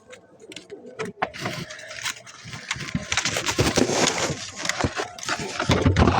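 Pigeons moving about in an aviary: a busy clatter of rustling, scratching and short clicks that grows louder over the first few seconds, with heavier low bursts near the end.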